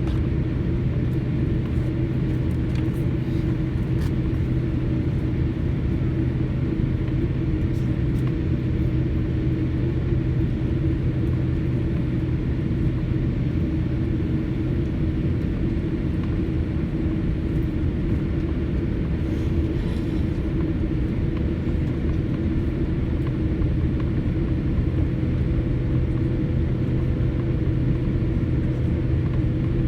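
Steady cabin noise inside a jet airliner on the ground before takeoff: a constant low engine and air-system hum with an even rumble.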